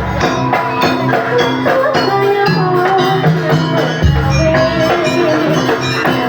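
Jaranan music from a Javanese gamelan-style ensemble: tuned percussion and drums with a wavering melody line over them, and a deep low stroke about four seconds in.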